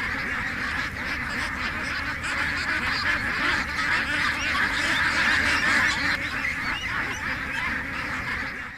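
A large flock of domestic ducks quacking together: a dense, continuous chorus of many overlapping calls that cuts off abruptly near the end.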